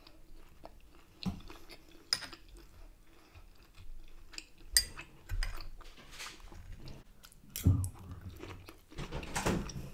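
A person chewing and biting food, with irregular crunches and a few sharp clicks.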